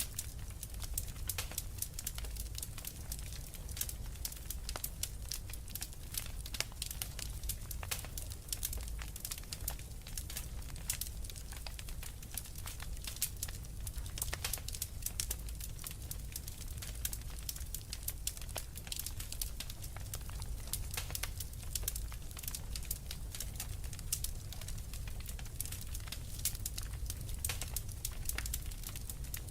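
Wood fire crackling, a dense run of small pops and snaps, over a steady low rumble.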